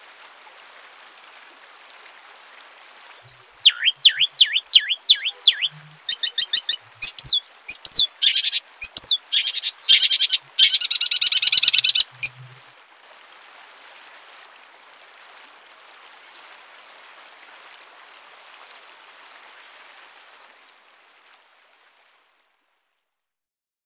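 Songbird singing: a run of sharp rising chirps starting about three seconds in, building into fast, dense trilling that cuts off suddenly about twelve seconds in. A steady hiss lies underneath and stops shortly before the end.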